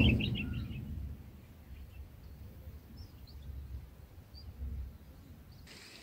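Thin, high bird chirps, a quick run of them in the first second and then scattered single ones, over a low steady outdoor rumble. A loud rustling noise at the very start fades away over the first second.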